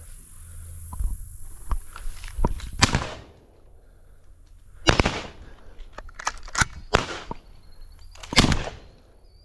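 A string of gunshots at flushing pigeons: sharp reports, the loudest about three, five and eight and a half seconds in, with lighter cracks and clicks between.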